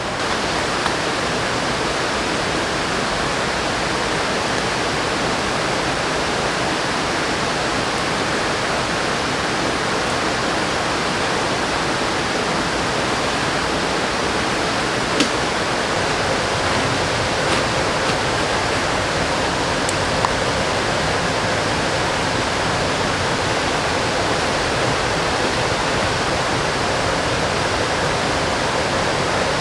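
Steady rushing of water, like heavy rain and a fast mountain river, with a few faint ticks.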